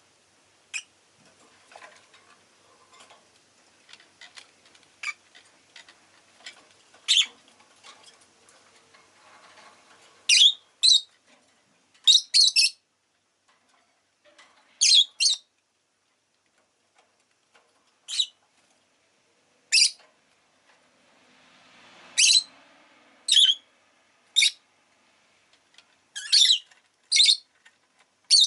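Rosy-faced lovebird giving short, shrill chirps at irregular intervals, a few seconds apart, louder and more frequent in the second half. Softer chattering and small clicks fill the first third.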